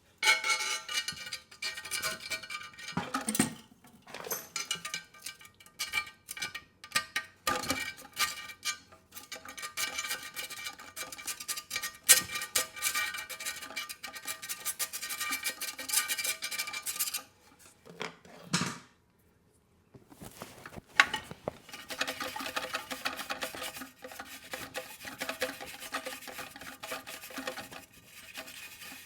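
Wire brush scrubbing rust and crud from around a bolt hole in a porcelain toilet tank: a dense, scratchy metallic scraping with many small clicks, stopping for a second or two about two-thirds of the way through, then resuming.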